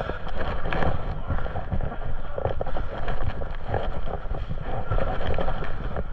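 Wind buffeting and rustling on the microphone, with many irregular low thumps, as from the camera being carried on the move.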